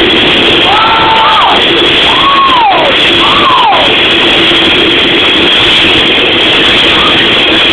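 Coal train passing close by, a loud, steady rumble with a steady hum underneath. A few short high tones rise and fall in the first four seconds.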